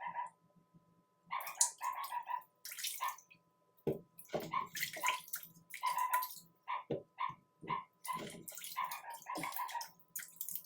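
Repeated short animal calls, about one to two a second, mixed with brief scratchy noises.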